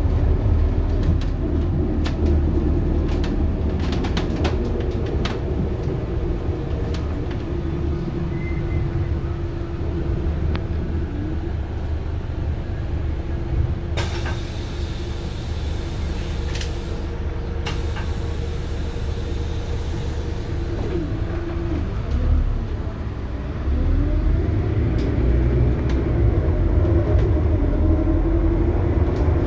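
Scania K280UB city bus running, its five-cylinder diesel and ZF Ecomat automatic gearbox giving a steady low rumble with a droning whine. About halfway through there is a long hiss of compressed air, and around two-thirds through the pitch slides down and back up as the bus slows and pulls away again.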